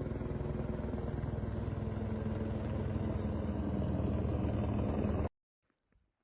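An engine running steadily with a fast, even pulse, which stops abruptly about five seconds in.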